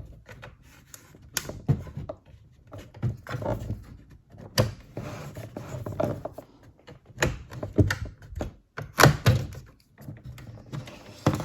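Irregular clicks and knocks of a laptop's plastic bottom case being pried loose and handled, the loudest knocks coming in the second half.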